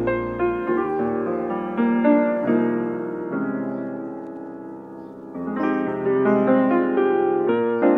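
Background piano music: single notes and chords struck and left to fade. It grows quieter toward the middle and picks up again after about five seconds.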